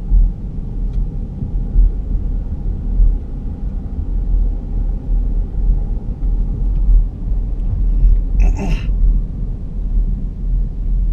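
Road noise inside a 2011 Ford Flex coasting at about 20 mph: a steady low rumble with a faint, dull high-pitched whine above it, the front-end noise that remains after both front hubs and wheel bearings and the tires were replaced. A brief hiss breaks in about eight seconds in.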